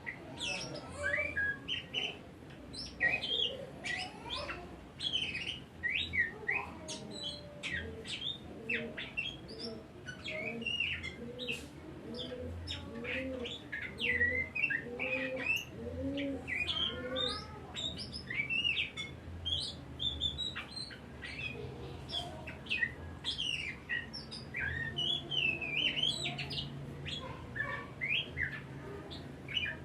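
Oriental magpie-robin singing a long, fast, varied song of short high chirps, sweeps and whistles, with a run of lower, rounded notes in the middle.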